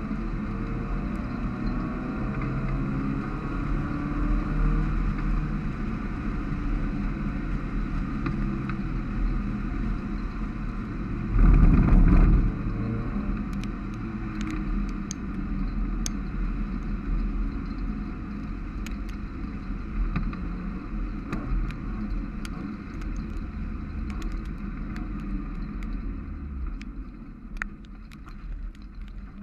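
Mazda MX-5's four-cylinder engine under racing load, heard from inside the open cockpit, its pitch rising and falling through the gears over tyre hiss on a wet track. A loud rush of noise lasts about a second near the middle, and the engine quietens near the end as the car slows.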